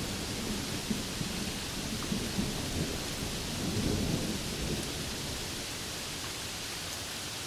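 Steady rain hiss with a low, rolling rumble of thunder underneath; the thunder swells about four seconds in, then fades away, leaving the rain alone.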